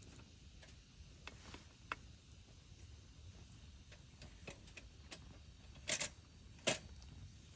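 Scattered light clicks and taps over a faint low background, with two sharper, louder clicks near the end.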